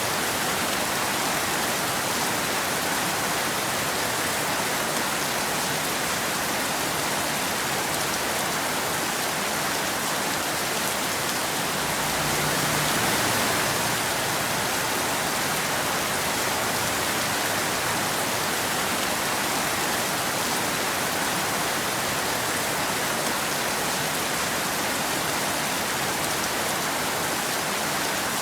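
Steady rain falling, an even hiss of drops, swelling slightly for a couple of seconds about halfway through.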